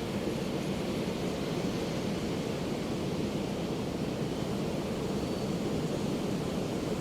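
Steady low roar of ocean surf on the open Pacific, an even wash with no single wave crash standing out.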